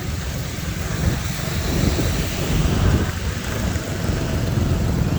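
Moving vehicle's steady engine and road rumble, with wind buffeting the microphone.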